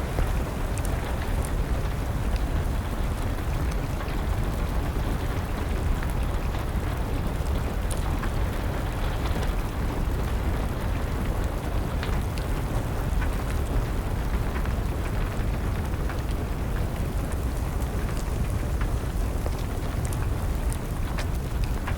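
Steady rain with a wood fire crackling: an even rushing hiss with a deep rumble, and scattered sharp pops.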